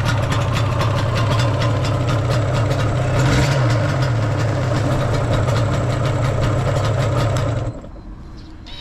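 Yamaha RZ250R two-stroke parallel twin idling through aftermarket SP Tadao FEREX expansion chambers, running without abnormal noise, with a brief rise in revs about three seconds in. The engine is switched off and stops suddenly near the end.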